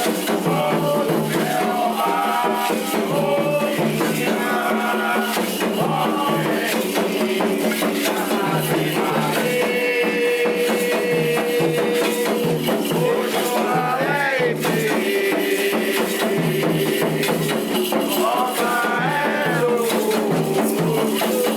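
Music of a Candomblé ceremony: voices singing a chant over shaken rattles and percussion in a fast, steady rhythm.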